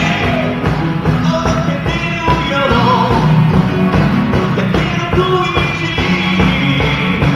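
A rock and roll band playing, with drums and a singing voice over a steady beat.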